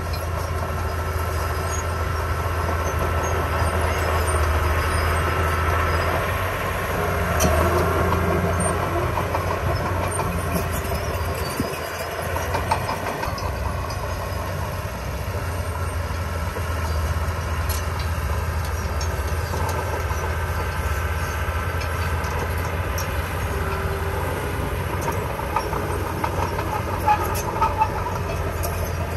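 Heavy construction machinery running steadily: a diesel engine's low rumble with some clatter, and a few sharp metallic clanks near the end.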